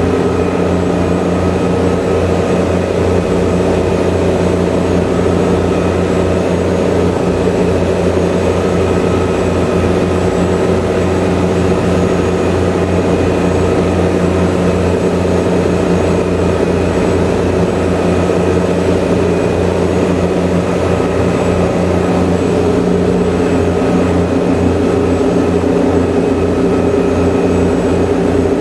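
Engines of a high-speed passenger ferry running steadily under way, heard aboard as a loud, even drone with a fast low throb.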